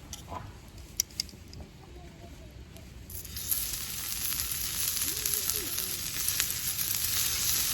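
Food sizzling on a hot steel camping griddle. There are two sharp clicks about a second in, and the sizzling starts about three seconds in and grows louder.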